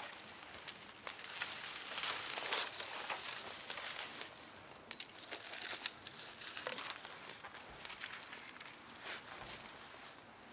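Wood campfire crackling, a hissing bed scattered with sharp snaps, busiest a couple of seconds in.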